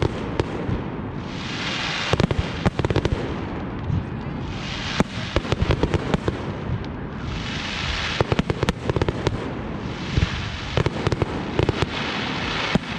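Fireworks display: rapid clusters of sharp bangs from bursting shells. Four waves of crackling hiss, each about two seconds long, swell and fade among the bangs.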